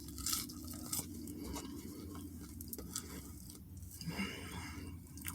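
Faint chewing and mouth noises of someone eating French fries, with small scattered clicks and rustles over a low steady hum.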